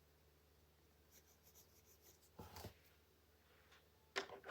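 Faint colored-pencil strokes on paper, light shading scratches, with one short, stronger rustle about halfway through.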